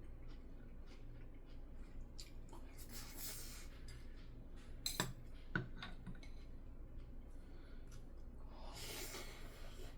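Eating at a table: small clicks of cutlery against dishes, with two sharper knocks about five seconds in and two soft breathy rushes of noise, around three seconds and near the end.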